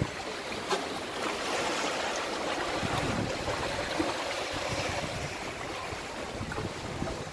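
Sea water washing and rushing along a sailboat's hull under way, with some wind noise and a few faint clicks.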